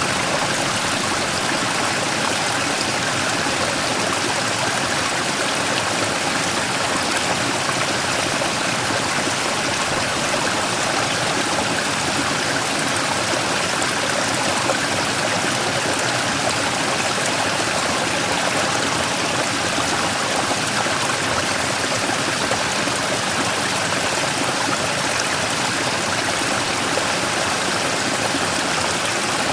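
Mountain stream water flowing and splashing over a large rock, a steady rushing with no pauses.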